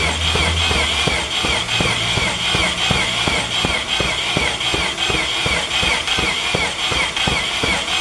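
Mazda 13B rotary engine spinning, with a steady high whine over a rapid rhythmic clatter, cutting off abruptly at the end.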